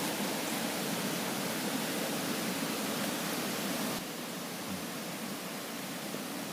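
Steady rushing of a mountain stream, dropping slightly in level about four seconds in.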